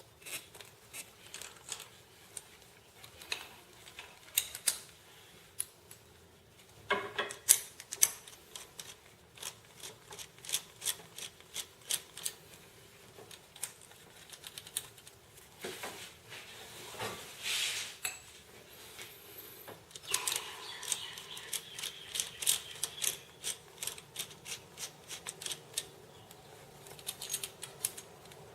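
Irregular metallic clicks and clinks of hand tools working on an engine, coming in quick clusters with short pauses between them.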